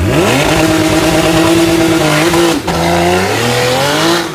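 Car engine accelerating hard: the pitch climbs, holds high, breaks off briefly about two and a half seconds in like a gear change, then climbs again.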